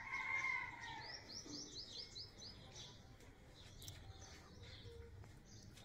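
Garden birds calling, faint: a drawn-out arching call at the start, then about a second in a quick run of about seven short rising chirps, followed by scattered chirps.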